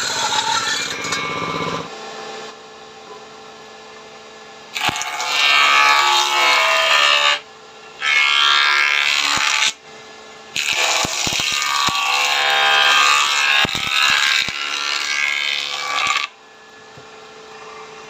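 Power tool working wood, in three loud stretches that start and stop abruptly, starting about five seconds in and ending near the end, over a low steady motor hum.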